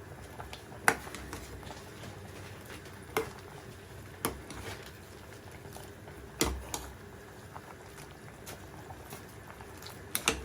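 Chicken simmering in a pot, cooked in water without oil: a low, steady bubbling, broken by a few sharp knocks, two of them close together near the end.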